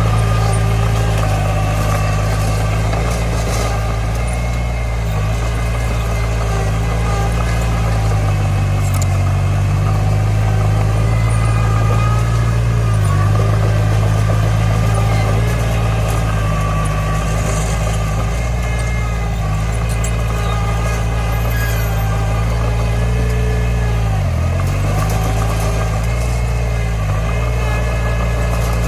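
Bulldozer's diesel engine running steadily, its pitch dipping briefly a few times, most deeply late on.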